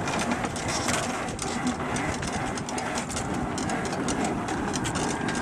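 Sailing dinghy's centerboard being hauled up by its line through the cleats, with rapid irregular clicking and rattling of rope, fittings and board.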